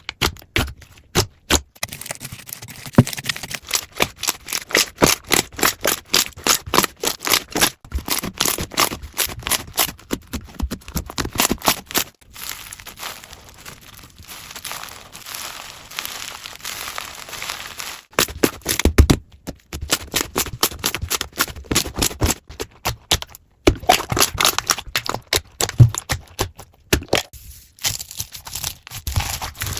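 Slime being squeezed and poked by hand, giving rapid trains of sharp crackling pops and clicks, several a second, in separate stretches with brief pauses between them.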